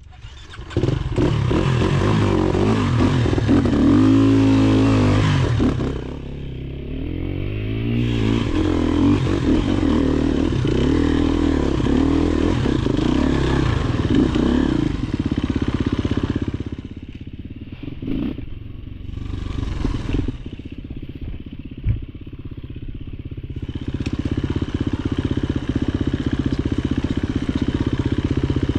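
Off-road dirt bike engine coming in loud about a second in, then running and revving with its pitch rising and falling again and again. It eases off a few times and picks up again near the end.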